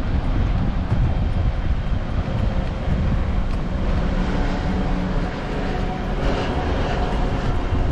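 Wind rushing over the microphone of a camera on a moving bicycle, a steady low rumble with the noise of the ride.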